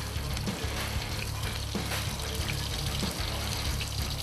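Yukjeon, thin egg-battered slices of beef chuck, sizzling in oil in a pan over high heat, with a steady crackle. Background music plays underneath.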